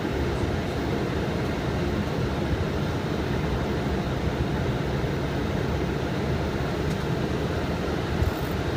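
Steady flight-deck noise of a Boeing 777 in flight: an even rumble of airflow and cockpit air conditioning, with faint thin tones above it.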